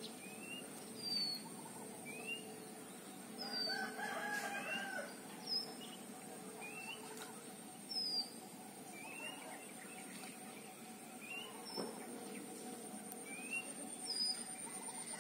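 Background birdsong: a small bird repeats a short two-note call about once a second, a quick rising note followed by a higher falling one. A longer drawn-out call comes about four seconds in, and a steady high-pitched whine runs underneath.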